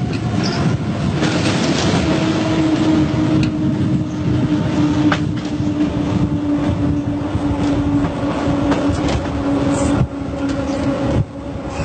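Train running on rails: a low rumble with a steady, slightly falling whine from about a second in that cuts off shortly before the end.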